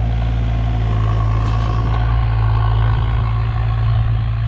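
Kato 35 mini excavator's diesel engine running steadily under work, with a thin whine coming in for a couple of seconds partway through.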